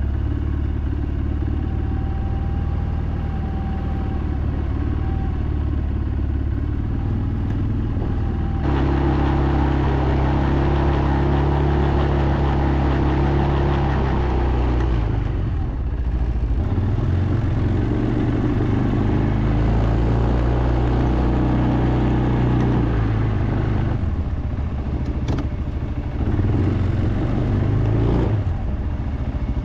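CFMoto CForce ATV engine running while riding, with the engine note varying with the throttle. It picks up and gets louder about nine seconds in, drops back around sixteen seconds, and changes speed a few more times near the end.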